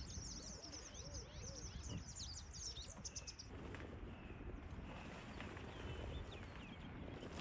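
Small birds chirping outdoors: a quick run of high chirps for the first few seconds, then fainter, scattered calls over a low wind rumble.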